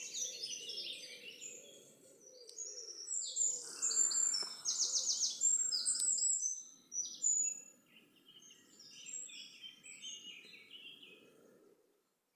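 Woodland dawn chorus: several birds singing at once in overlapping phrases, with a loud rapid trill about four seconds in. A low steady rumble runs underneath, and everything fades out near the end.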